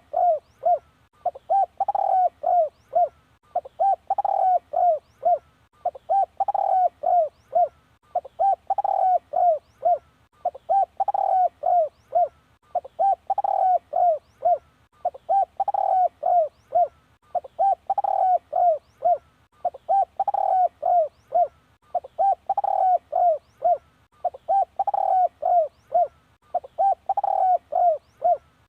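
Spotted dove cooing: a phrase of several quick coos, repeated evenly about every two and a quarter seconds with a short pause between phrases. It is the call used as a decoy to lure wild spotted doves.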